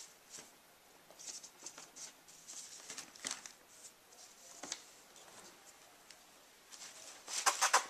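Dachshund puppy scratching and rustling about: scattered light scratchy ticks, then a quick flurry of clicks near the end.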